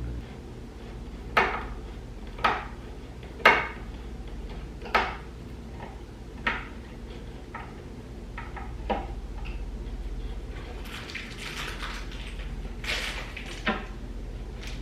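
Hard objects clacking and clattering: a string of sharp knocks about a second apart, the loudest about three and a half seconds in, then lighter scattered clatter and rustling near the end.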